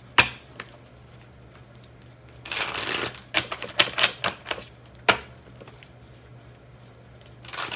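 Tarot cards being shuffled and handled by hand: a short riffle about two and a half seconds in, with sharp card snaps and taps before and after it, then a quieter stretch near the end.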